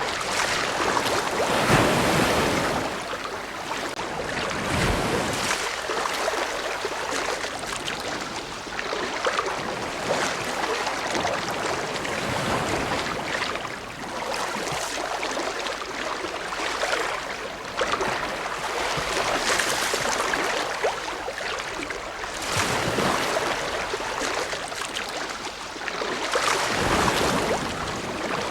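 Ocean waves breaking and washing up the shore, a steady rush of surf that swells and falls every few seconds, with a few louder waves breaking.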